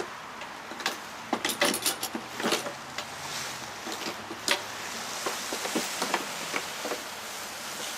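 Scattered metal clicks, clinks and knocks of a lawnmower being handled and moved.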